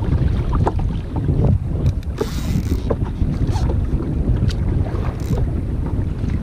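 Wind buffeting a GoPro's microphone out at sea on a pedal kayak, a steady heavy rumble. Short ticks and light splashes of water are scattered through it, with a brief hissing splash a couple of seconds in.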